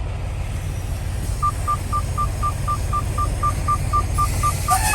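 Semi truck's diesel engine running with a steady low rumble, and from about a second and a half in, a rapid electronic beeping at one pitch, about four beeps a second.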